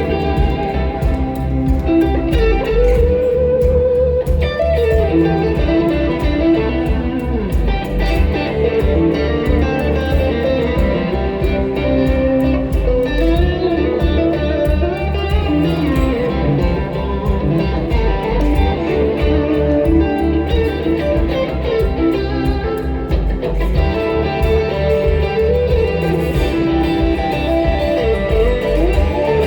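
Live band music: an electric guitar plays a lead line with bending notes over a steady low bass and drum hits.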